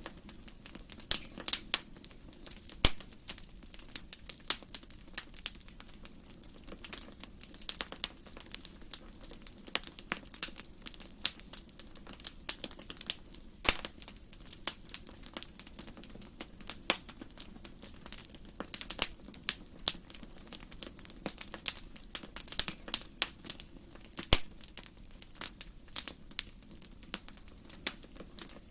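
Wood fire burning in a fireplace: a steady run of irregular crackles and snaps, with a few louder pops, about three seconds in, near the middle and a few seconds before the end.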